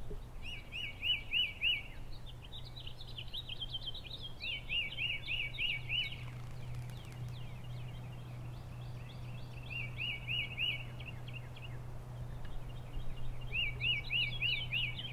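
Songbirds singing outdoors: one bird repeats a short phrase of four or five quick identical notes every few seconds, with other birds chirping in between, over a steady low hum.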